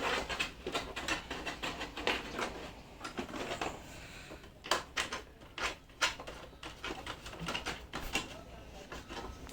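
Irregular light clicks and knocks, a few to several a second, from objects being handled, over a faint low hum.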